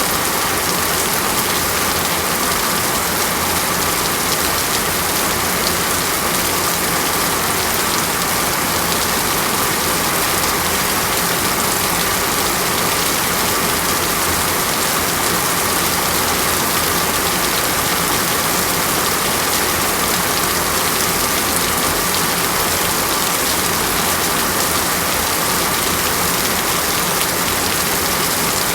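Heavy tropical rainstorm falling steadily, an even, unbroken hiss of rain.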